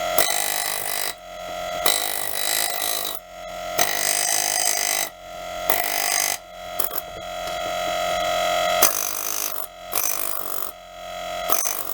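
Repeated scraping strokes on the rusty metal of an old monkey wrench, each lasting about one to two seconds with short pauses between, and a steady ringing tone through each stroke.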